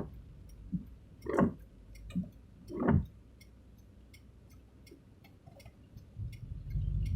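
A vehicle's turn-signal indicator ticking steadily over a low road rumble, with two louder short thumps a second and a half apart early on.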